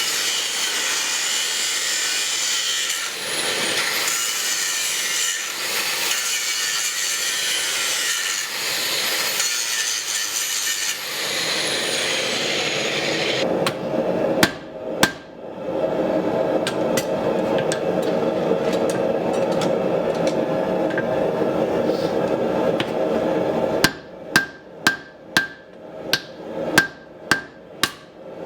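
About eight hammer blows ringing on steel at the anvil near the end, coming roughly two a second. Before them is a high, harsh hiss with shifting whines for the first half, then a steady hum broken by two sharp knocks.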